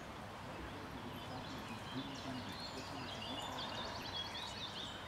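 Songbirds singing from the surrounding trees over a steady outdoor background, with a quick trill of repeated high notes in the second half.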